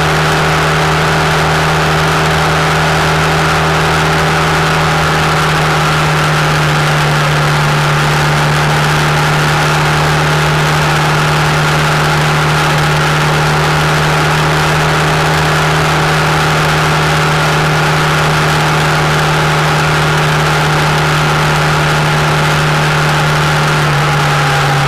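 Honda Interceptor 700's V4 engine running steadily at cruising speed, with wind and road noise over it; the engine note drops slightly near the end as the bike eases off.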